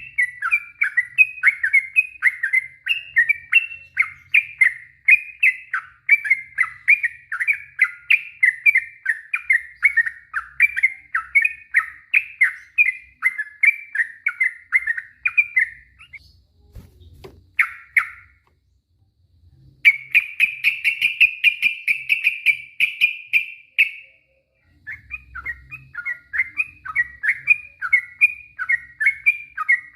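Yellow-vented bulbul (trucuk) singing a long run of rapid chirping phrases, about four notes a second. A little past halfway it breaks off briefly, then gives a fast continuous trill for about four seconds before the chirping resumes. A faint low knock comes just before the break.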